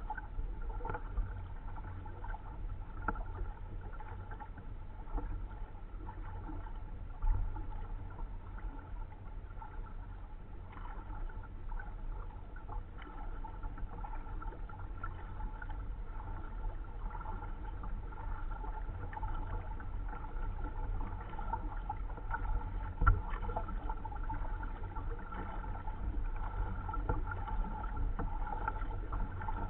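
Kayak being paddled: the splash and drip of paddle strokes over a steady low rumble, with two sharp knocks, about seven seconds in and again about twenty-three seconds in.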